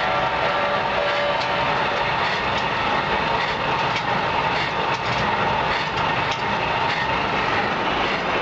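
Charcoal-making machinery running steadily, with irregular clattering and rattling over a constant mechanical noise and a faint steady whine.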